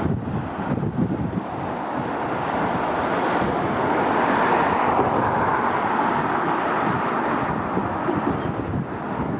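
Electric multiple-unit train running through the station, its sound building to a peak about halfway and then easing off, with wind buffeting the microphone throughout.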